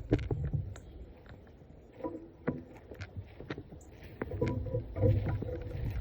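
Wind buffeting the microphone, with scattered sharp clicks and knocks as the wooden boxes and frames of a beehive are pried and handled.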